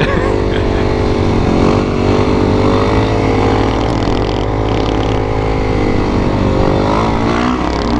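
Motorcycle engine running under way, its pitch rising and falling as the throttle is opened and eased off.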